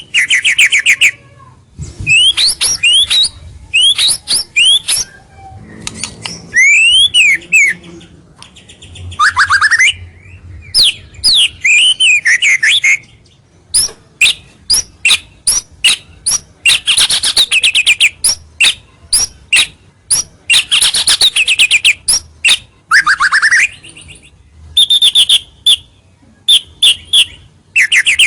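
White-rumped shama singing a loud, varied song: clear slurred whistles, rising and falling sweeps and rapid runs of sharp repeated notes, in phrases broken by short pauses.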